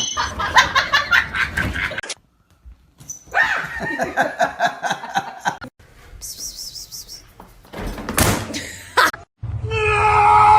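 People laughing and voices, heard in several short clips cut one after another, with sudden breaks between them.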